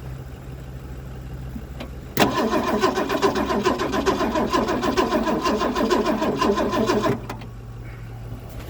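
1964 Mercury Comet Caliente's engine, just started for the first time after restoration, idling with a steady low hum. About two seconds in it runs much louder with a fast, even pulsing beat for about five seconds, then drops back to idle.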